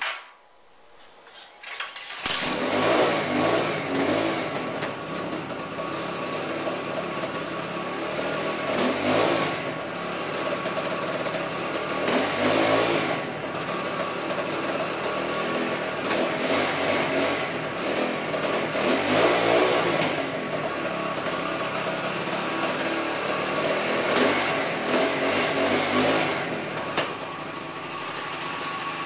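200cc single-cylinder dirt bike engine: it cuts out at the start, fires again about two seconds in, then keeps running, revved up every few seconds.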